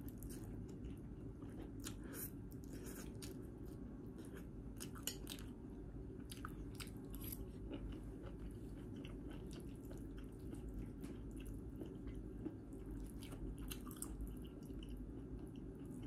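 Close-up eating sounds: chewing spicy stir-fried instant noodles and sea snails, with irregular soft clicks and crackles.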